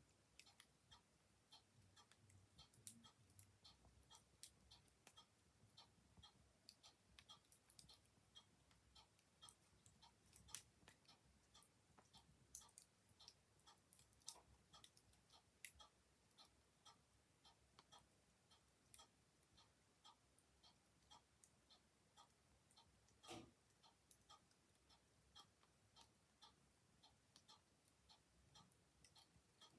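Quiet crackling of a wood fire, scattered sharp pops and snaps, over a clock ticking steadily. One louder pop comes about two-thirds of the way through.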